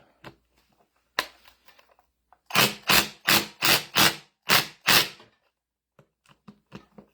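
Hand tool work on a reassembled hydraulic pump: one sharp click, then six sharp, evenly spaced strokes about two and a half per second, followed by a few faint clicks.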